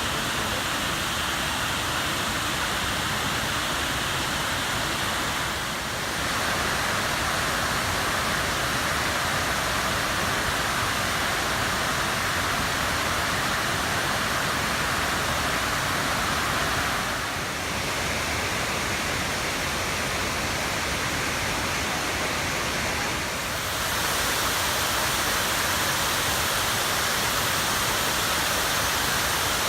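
Steady rush of falling water from the 9/11 Memorial's reflecting-pool waterfalls. Its tone shifts slightly a few times, about six, seventeen and twenty-four seconds in.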